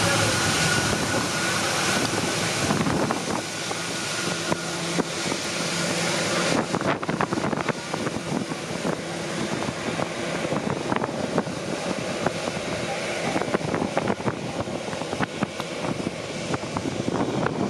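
Vehicle noise around an airport apron: a loud rushing hiss with a thin steady whine that drops away suddenly about six and a half seconds in, then a running engine with frequent rattles and knocks.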